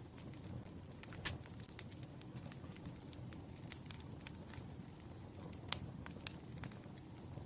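Wood fire crackling: irregular sharp pops and snaps of burning logs, a couple louder than the rest, over a steady low hiss.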